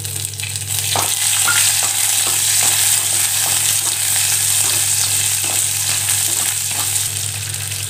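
Small shallots sizzling steadily in hot sesame oil in a clay pot, stirred with a wooden spatula that gives faint knocks and scrapes against the clay now and then.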